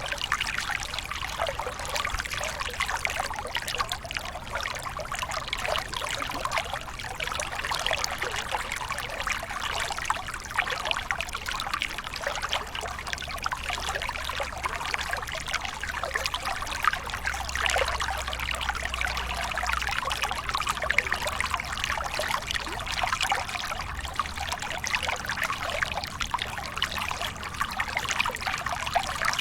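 Small waterfall pouring and trickling steadily, a dense even splashing with no breaks.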